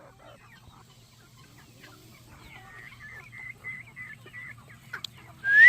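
Chickens clucking softly, with a run of short, even high-pitched notes in the middle. Near the end comes one loud call that rises in pitch.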